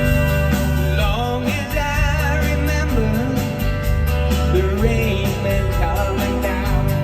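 Live country-rock band playing loudly, with guitar, bass and drums. A male lead vocal sings over the band.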